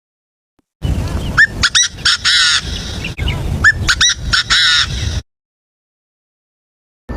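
A bird calling, starting about a second in: a phrase of short, upward-hooked notes followed by a harsh, rasping call, given twice.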